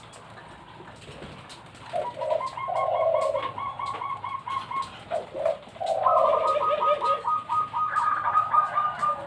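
Bangkok-type zebra doves (perkutut) cooing. Two phrases, about two seconds in and again about six seconds in, each a low drawn-out coo followed by a quick run of short, higher clipped notes.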